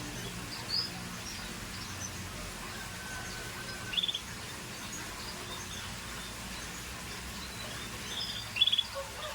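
Canary giving a few short high chirps over a steady background hum: a single chirp near the start, a quick run of notes about four seconds in, and the loudest chirps near the end.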